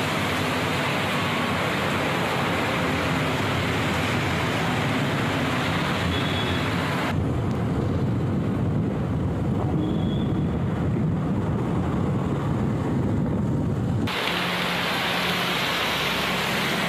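Steady hiss of heavy rain falling on wet roads. From about seven seconds in to about fourteen, it switches suddenly to a low, muffled rumble, then the rain hiss returns.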